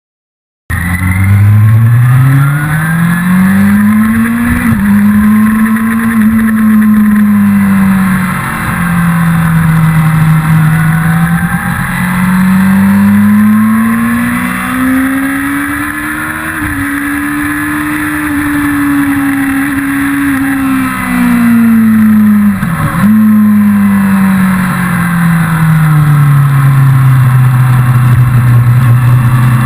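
1999 Yamaha R6 (5EB) 600 cc inline-four engine at racing revs, its pitch rising and falling as the bike accelerates and slows through corners. There are sharp momentary breaks about five, seventeen and twenty-three seconds in, and the engine settles to a steady lower note near the end. The sound starts abruptly, less than a second in.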